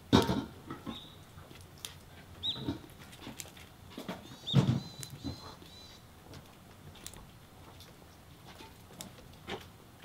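Varied tit giving several short, nasal, high-pitched calls, mixed with a few sharp knocks; the loudest knocks come right at the start and about four and a half seconds in.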